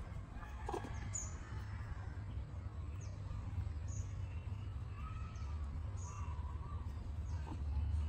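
Birds chirping in the background, with short high calls about once a second and a few wavering lower calls, over a steady low rumble.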